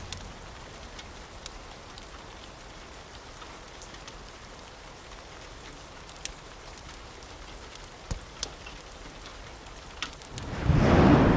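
Steady soft rain with a few sharp ticks scattered through it. Near the end, a sudden loud rumble of thunder breaks in.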